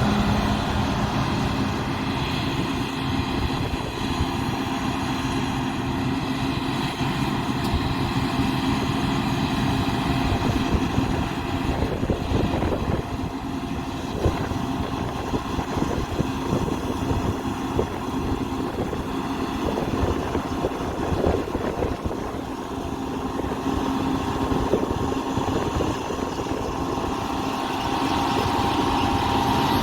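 Heavy harvest machinery running: a steady diesel engine drone with a constant hum over a rumbling noise, growing louder near the end.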